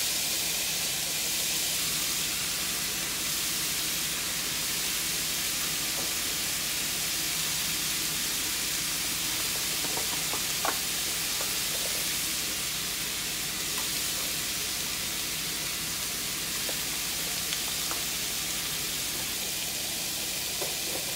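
Ivy gourd (tindora) pieces sizzling steadily in hot coconut oil in a frying pan, with a single light click about halfway through.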